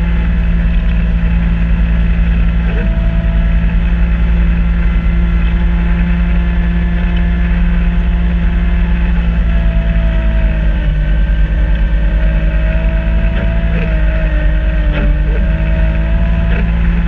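Kubota B2650 tractor's three-cylinder diesel engine running steadily under load, driving a front-mount snow blower. A faint wavering whine comes in about ten seconds in.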